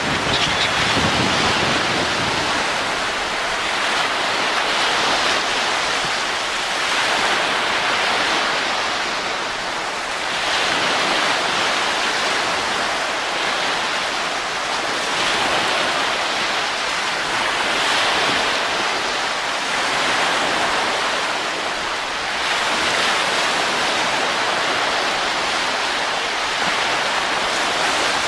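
Steady wind noise, a continuous rushing that swells and eases every few seconds.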